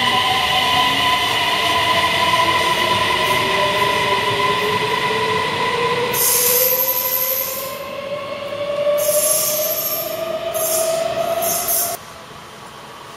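SJ electric passenger train pulling away from the platform: a steady electric whine with a tone that slowly rises in pitch as it gathers speed, and bursts of high-pitched noise in the second half. The sound drops off abruptly near the end.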